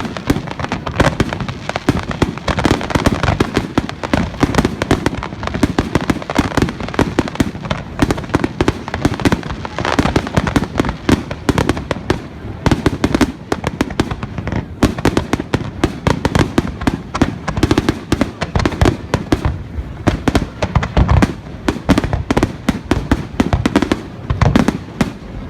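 Fireworks finale: aerial shells bursting in a rapid, unbroken barrage of overlapping bangs.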